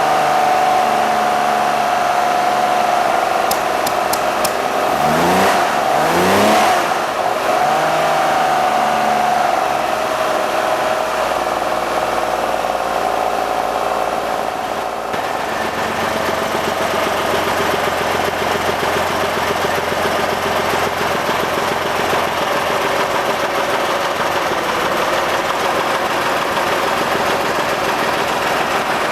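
Engine running on a freshly rebuilt set of Weber 40 IDAP carburetors during a base tune and balance, mostly idling steadily. About five seconds in the revs rise briefly and fall back to idle, and the note shifts slightly again about halfway through as the carburetors are adjusted.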